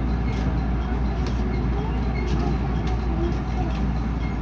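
Steady low rumble inside a JR 207 series commuter train, with a few faint clicks.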